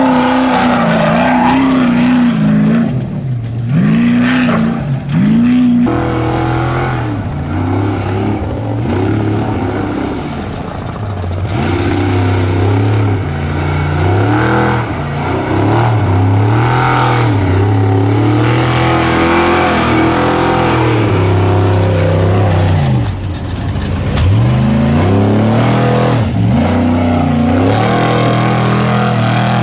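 Baja Trophy Truck V8 engines running loud and hard, their pitch swooping up and down over and over as the throttle is worked through rough desert terrain.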